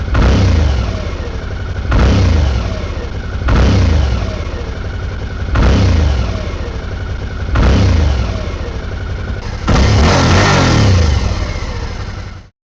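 A motorcycle engine revved in sharp throttle blips about every two seconds, the pitch falling back after each one. Near the end comes one longer, higher rev, then the sound cuts off abruptly.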